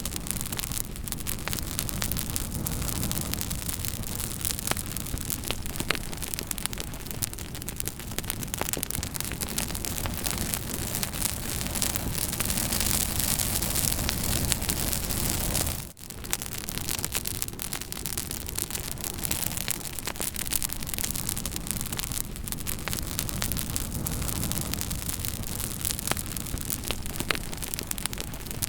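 Campfire burning: dense crackling and popping over a steady hiss of flames. There is a brief dip in the sound a little past halfway.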